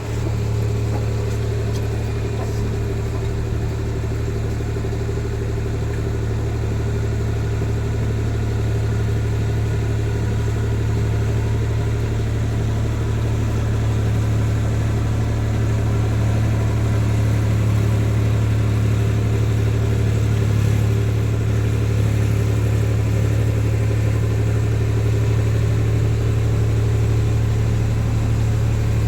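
Tractor engine running steadily at a constant pitch, with a low drone that does not change.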